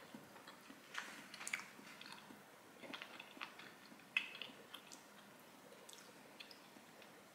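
Soft chewing while eating, with scattered faint clicks of chopsticks and food being handled.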